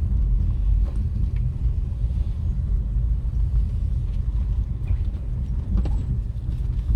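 Steady low rumble of a motor vehicle on the move, with a few faint ticks.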